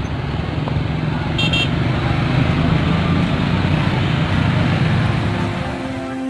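Road traffic with a vehicle engine running close by, a steady low hum, and a brief high-pitched beep about one and a half seconds in.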